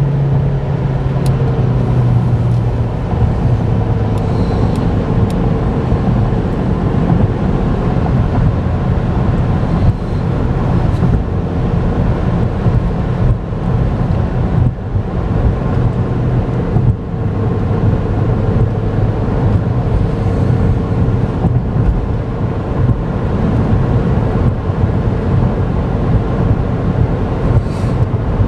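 A 2011 Chevy Volt driving on the road, heard from inside the cabin: steady road and tyre noise with a low hum, following a hard acceleration.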